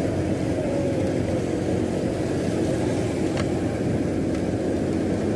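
Motorcycle riding along: a steady engine hum over a low rumble, with a brief click about three and a half seconds in.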